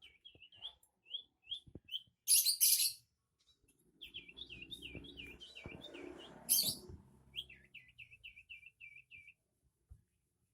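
Agitated sirtu (cipoh) songbird calling in series of short, sharp, down-slurred whistled notes, first spaced out and then in quick runs of several notes a second. Two loud harsh hissing bursts break in, about two seconds in and again around six and a half seconds.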